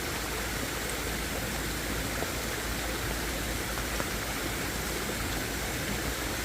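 Steady, even rushing of water, with a few faint clicks.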